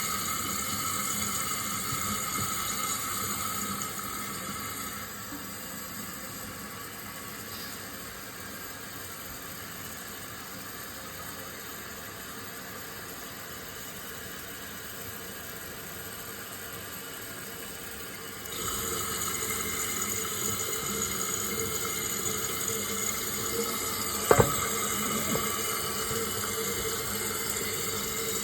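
Toilet tank refilling after a flush, the fill valve running with a steady rush of water. The sound drops quieter a few seconds in and grows louder again later, with one sharp click near the end.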